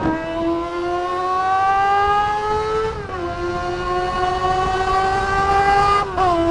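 Kawasaki ZR250's unmuffled engine under acceleration while riding: its pitch climbs steadily, drops sharply about three seconds in at an upshift, climbs again and drops at another upshift near the end. It is loud and raw because it runs with no muffler.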